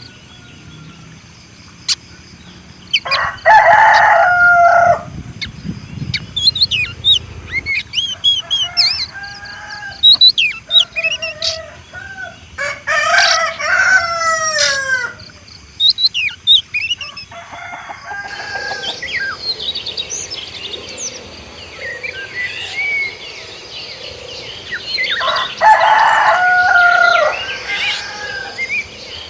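Rooster crowing, two long crows about three seconds in and near the end, with a shorter call in the middle. Small birds chirp between the crows.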